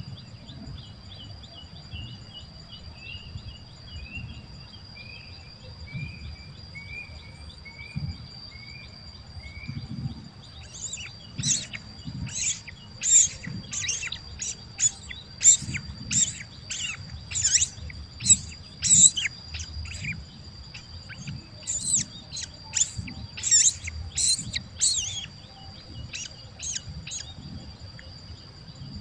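Birds calling: a run of short notes stepping down in pitch for about ten seconds, then loud, sharp chirps repeated about twice a second for some fifteen seconds. A steady high insect drone runs underneath.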